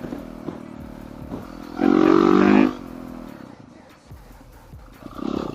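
Dirt bike engine revving hard in one loud burst about two seconds in, then dropping back to a lower throttle, with scattered knocks from the bike over rough, rocky ground.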